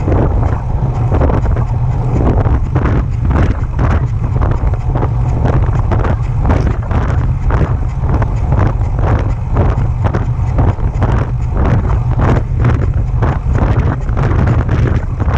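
Specialized Turbo e-bike's drive making a repeating noise under pedaling, pulsing about twice a second, with heavy wind rumble on the microphone from riding.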